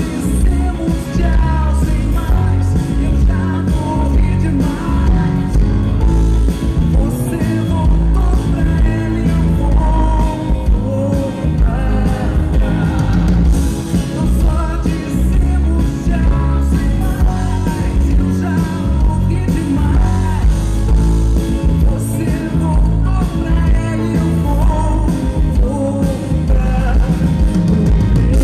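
Live band performance of a slow soul-rock song, a woman singing in Portuguese over heavy bass and drums with guitar.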